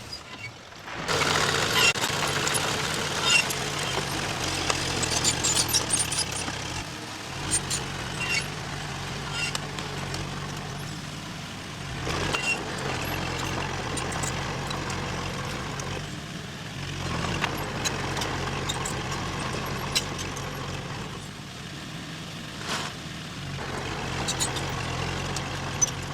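Diesel engine of heavy earthmoving machinery running steadily under load, with frequent sharp metallic clicks and squeaks over the engine.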